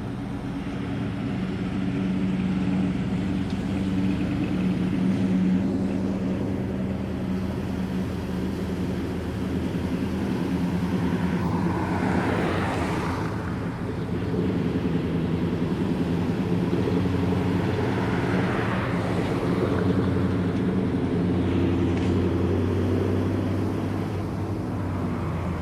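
Car engines running, a steady low drone with several pitched lines, swelling louder about halfway through and again a few seconds later.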